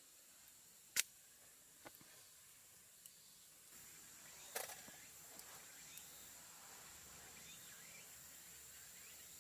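A quiet stretch broken by a sharp click about a second in, a couple of fainter knocks, and a brief clatter near the middle, over a faint steady high-pitched hiss.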